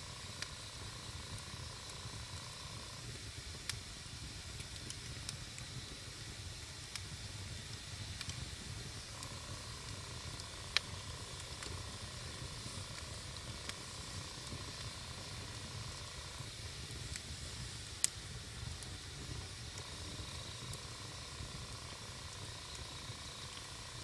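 Wood campfire burning with a steady hiss and low rumble, broken by scattered sharp crackling pops, two louder ones about eleven and eighteen seconds in.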